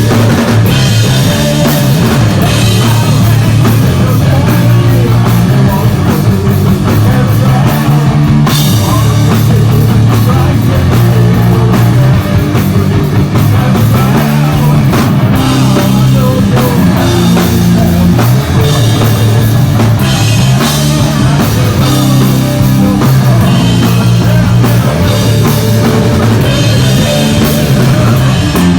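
Live heavy metal band playing loud and steady: distorted electric guitars, bass and drum kit, with no vocals.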